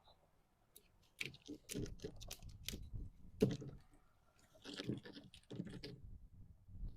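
A run of irregular knocks and clicks, starting about a second in, with a short lull near the four-second mark.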